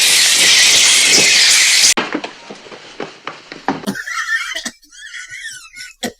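Film soundtrack of attacking birds' shrieks and wing noise: a loud, dense hiss that cuts off sharply about two seconds in, then fainter clatter and a few wavering high cries.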